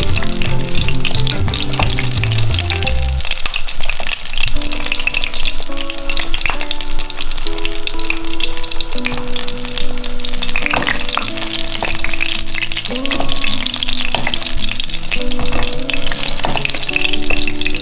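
Sabah fish frying in hot oil in a pan, its back side down: a steady, dense sizzle and crackle. Background music plays over it.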